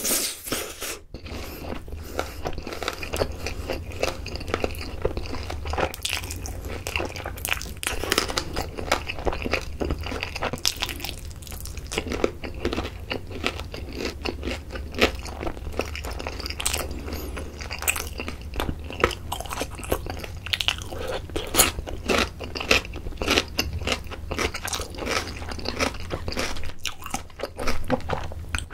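Close-miked chewing and biting of sauce-coated fried chicken drumsticks: continuous mouth noises with many short, crisp clicks and crunches.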